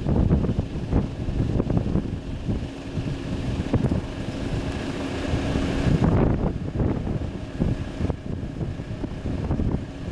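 Wind buffeting the microphone in irregular gusts over the steady hum of a jet airliner's engines, with a rise in high engine noise around the middle.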